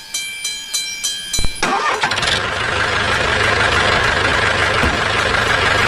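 Rapid ringing strikes, about three a second, that stop about a second and a half in. A motor then starts and runs steadily.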